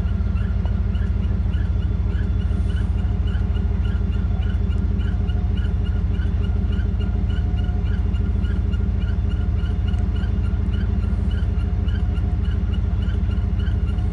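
Steady low running of a motor, with a short high chirp or squeak repeating about twice a second.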